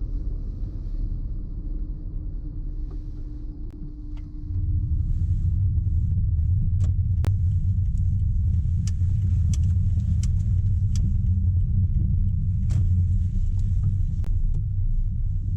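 A car driving along a road: a steady low rumble of tyres and wind that gets louder about four and a half seconds in, with a faint steady hum early on and scattered sharp clicks through the second half.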